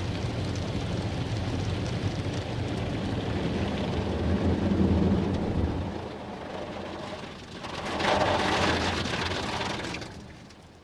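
Automatic car wash spraying water onto the car, heard from inside the cabin as dense drumming on the body and glass over the low rumble of the wash machinery. A second surge of spray comes about eight seconds in, then it fades near the end.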